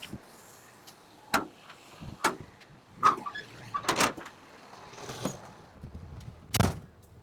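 Front-load garbage truck's forks working a dumpster, lifting it slightly and dragging it out of its enclosure: a series of five or so sharp metal knocks and clunks over the truck's low running hum, the loudest near the end.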